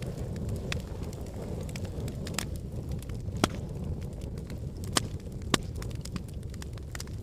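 Wood fire burning in a fireplace: a steady low rumble of flames with irregular sharp crackles and pops, the loudest pops about three and a half, five and five and a half seconds in.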